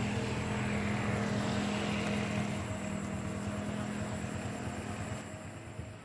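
Bombardier CRJ1000 regional jet's two turbofan engines running with a steady hum and a high whine, fading near the end.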